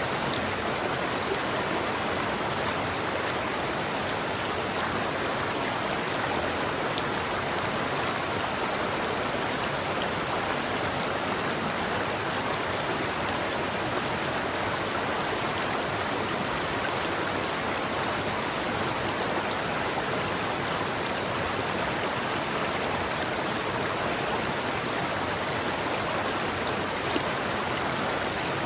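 River water flowing steadily over rocks, a continuous rushing babble.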